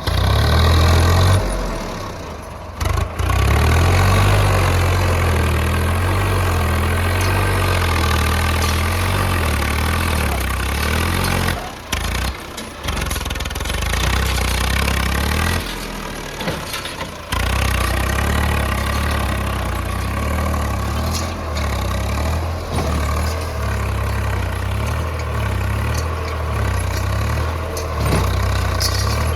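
Heavy diesel engine running steadily with a deep, even rumble. The sound cuts out abruptly for a moment three times and picks up again.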